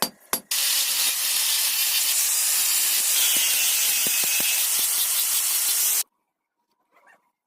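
Two hammer blows on metal, then a loud steady hiss for about five seconds that cuts off suddenly.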